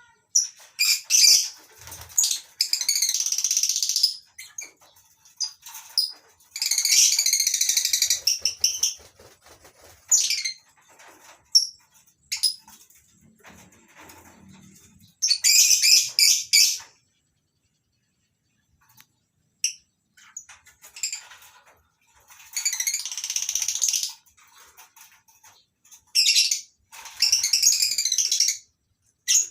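A colony of lovebirds calling: shrill, high chattering in repeated bouts of a second or two, with short quiet gaps between them.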